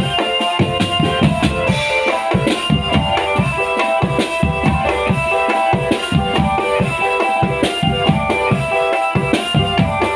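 Marching drum band playing: snare and bass drums beat a busy, steady rhythm under a melody of held notes.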